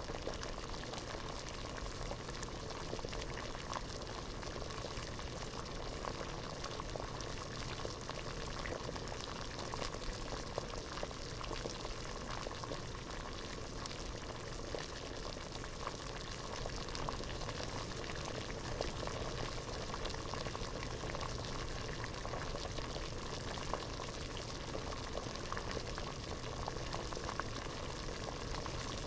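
Water at a steady rolling boil in a pot, a dense continuous bubbling made of many small pops.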